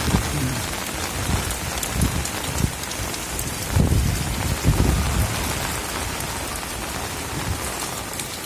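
Heavy rain falling steadily, with low rumbling swells a few times, loudest about four to five seconds in.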